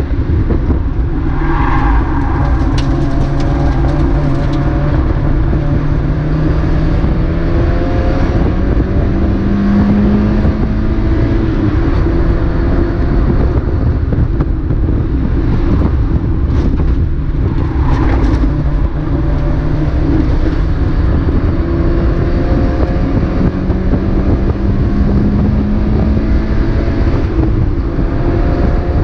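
Mazda MX-5 race car's four-cylinder engine running hard under load, its note climbing in long rises, twice, over heavy wind and road noise.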